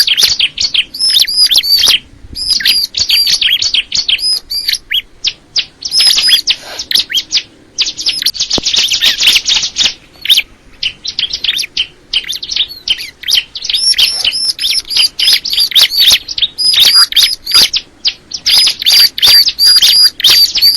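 Ciblek kristal, a prinia, singing loudly: rapid strings of sharp, high chirping notes repeated in quick runs with short breaks, and dense buzzy trills about a third of the way in.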